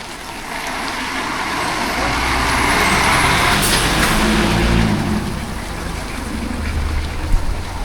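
Road traffic: a motor vehicle passes close by, its engine and tyre noise swelling to a peak about three to four seconds in and then easing off, over a steady low wind rumble.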